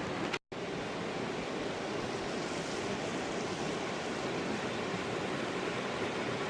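Steady rush of flowing stream water, broken by a brief cut to silence about half a second in.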